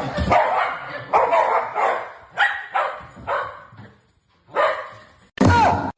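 A dog barking, about seven barks at irregular intervals, the last one the loudest.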